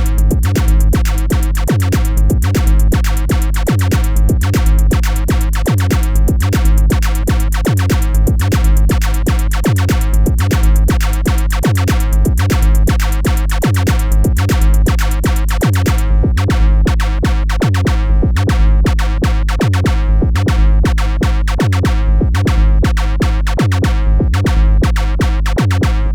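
Electronic music played on synthesizers: a steady drum-machine beat over a heavy synth bass line, with the bright top layer of the beat dropping out about sixteen seconds in.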